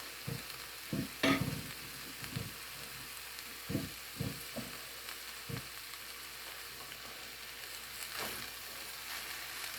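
Wheat pancit noodles and broccoli sizzling in a frying pan as they are stirred, with the utensil knocking and scraping against the pan several times in the first half.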